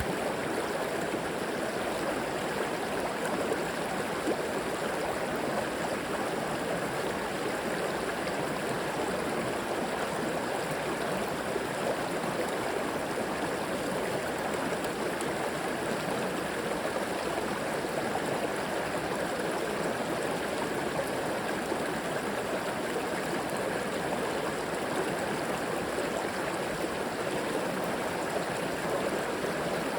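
River water flowing and gurgling, a steady, even rush.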